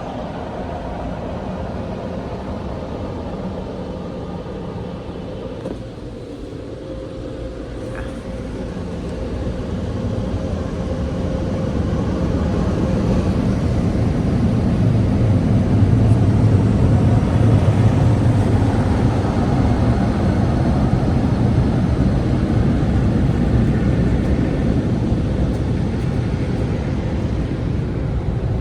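Automatic car wash heard from inside the car: a steady rushing noise that swells from about eight seconds in to a loud, deep blast, consistent with the wash's air-blower dryers passing over the car.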